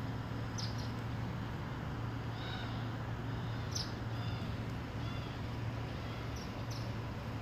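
Small birds chirping now and then, short high calls scattered over a steady low hum.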